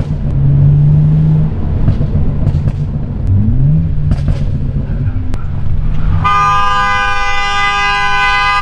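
BMW 335i twin-turbo six running inside the cabin after a stage 2 tune, at steady revs and then briefly rising, with a few sharp exhaust pops. About six seconds in, a car horn starts and sounds steadily for over two seconds.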